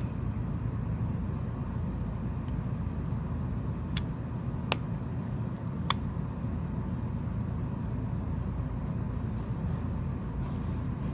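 Three sharp little clicks, about 4, 4.7 and 6 seconds in, from small phone parts being handled and fitted back on during reassembly, over a steady low background rumble.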